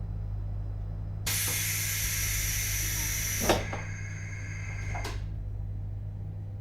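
Inside a JR Hokkaido 721 series EMU car: a steady low hum, then about a second in a loud burst of compressed-air hiss lasting about two seconds that ends in a sharp clunk, followed by a second knock about a second and a half later.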